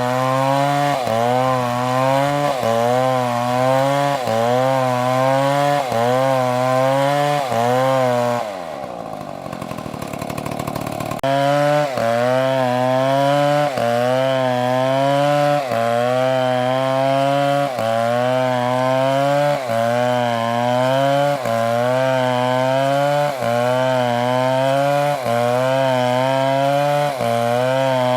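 Chainsaw cutting wood at high revs, its pitch dipping and recovering about once a second as the chain bites. About a third of the way in, the revs fall away for a couple of seconds before the cutting resumes.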